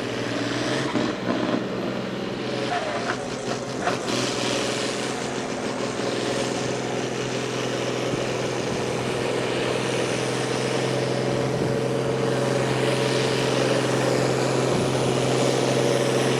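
Competition pulling vehicle's engine running hard through a pull, a steady drone with some crackling in the first few seconds, growing gradually louder.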